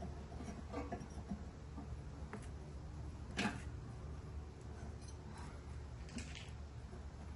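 Scattered, irregular light clicks and taps of tools and parts being handled during a mower-deck spindle repair, with one sharper knock about three and a half seconds in, over a steady low hum.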